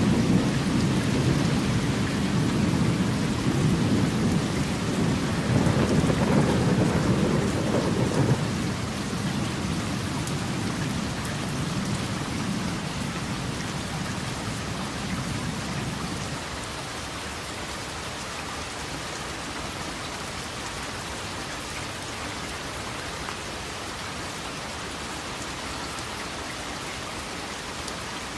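Steady rain with a long rolling rumble of thunder that fades away over roughly the first half, leaving only the even patter of the rain.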